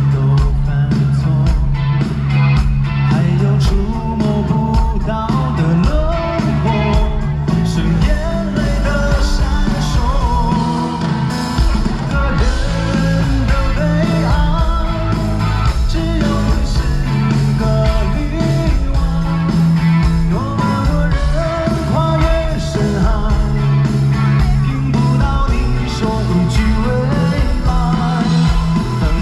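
Live rock band music with a singer, electric guitar and a strong steady bass, heard from the crowd at an open-air concert.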